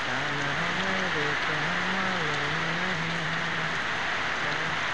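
Heavy monsoon rain pouring steadily. Underneath it, a low voice hums a gliding melody.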